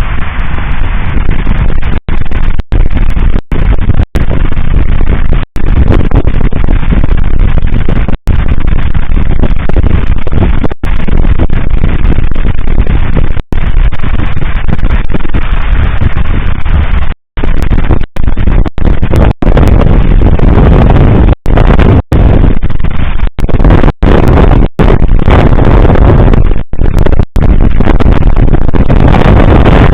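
Fireworks display through an overloaded microphone: a continuous loud, distorted din of bangs and crackle, cut by many brief dropouts.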